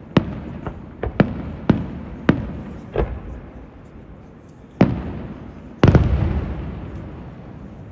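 Fireworks going off in a rapid run of sharp bangs, one about every half second for the first three seconds, each with an echoing tail. After a short gap comes another bang, then the loudest burst near six seconds, whose rolling echo dies away slowly.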